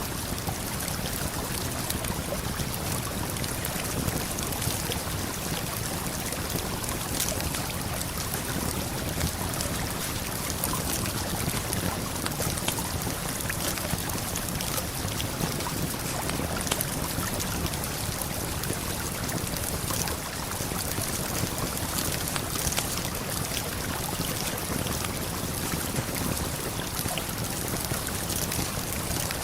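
Steady rush of a river and waterfall, with scattered small crackles and pops of a campfire.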